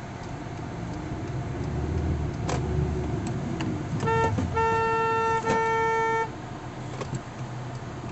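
A vehicle horn honks three times, a short tap followed by two longer blasts on one steady note, over the low rumble of a vehicle close by. It is a warning honk during a near-miss, as a big truck with a trailer turns into the car's lane.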